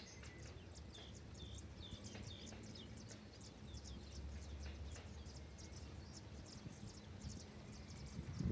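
Faint, quick bird chirps and short calls repeating, over a steady low rumble.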